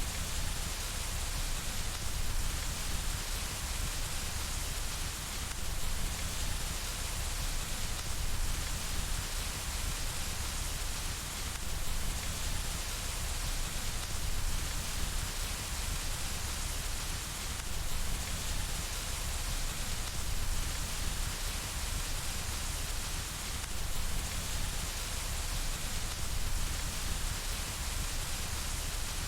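Steady rain falling on window glass: an even, continuous hiss with a low rumble underneath.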